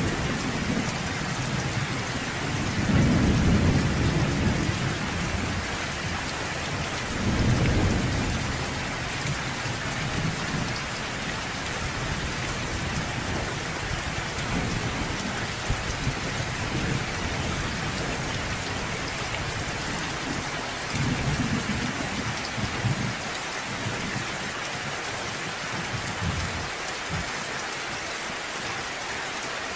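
Steady heavy rain hissing on a surface, with low rolling thunder rumbling through it several times, strongest about three seconds in and again near eight seconds, with a weaker roll a little past twenty seconds.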